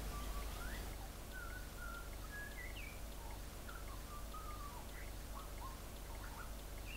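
Birds chirping faintly: a loose series of short whistled notes that slide up and down in pitch, over a steady low hum.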